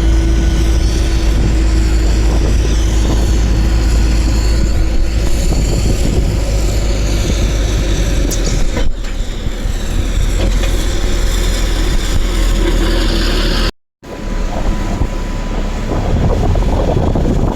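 Beechcraft King Air B200's PT6A turboprop engines running, with a faint wavering whine over a heavy rumble of wind on the microphone. The sound drops out briefly about 14 seconds in, then resumes.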